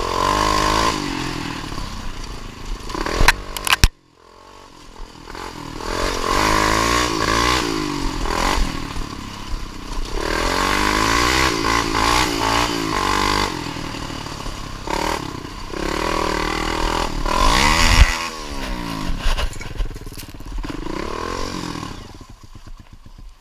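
Dirt bike engine revving hard, its pitch rising and falling again and again. There are a few sharp clatters a little over three seconds in, then the sound cuts off and the revving starts again.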